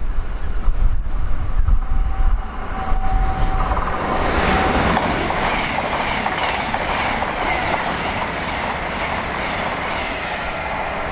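A train passing through the station at speed. Its noise builds about four seconds in and holds, with a few steady whining tones on top, while strong wind buffets the microphone.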